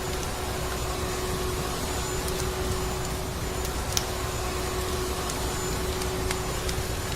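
Vacuum cleaner running steadily: an even motor and airflow noise with a constant hum, and a few faint clicks scattered through it.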